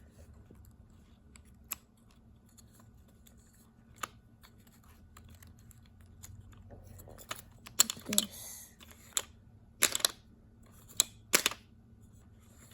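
Light clicks and taps of small kit parts being handled and fitted together: a few scattered ones at first, then a quicker run of sharper clicks in the second half.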